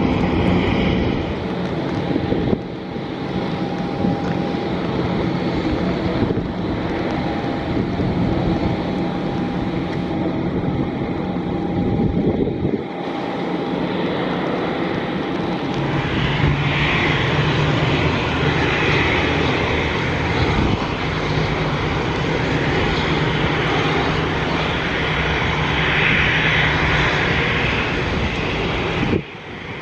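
Jet engines of an Airbus A350-941, Rolls-Royce Trent XWBs, running with a steady rushing noise and a faint whine. The sound breaks off briefly twice and grows fuller and brighter from about halfway through.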